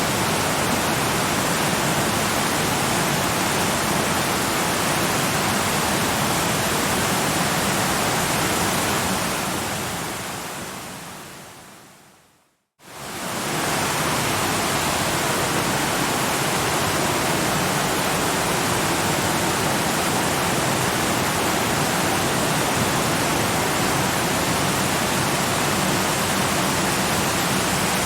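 Steady rushing water of a waterfall that fades out over about three seconds in the middle, drops to a moment of silence, then quickly fades back in and runs on steadily.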